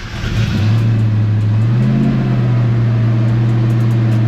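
Car engine starting from cold in freezing weather and settling into a steady fast idle. Its pitch rises briefly about two seconds in, then holds.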